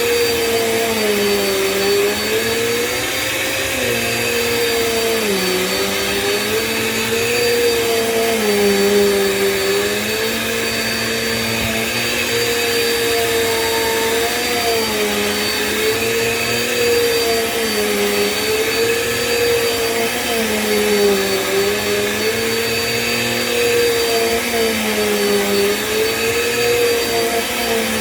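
Small Bissell vacuum cleaner running on a rug, its motor hum steady with a high whine above it, the pitch dipping briefly and recovering every three to four seconds.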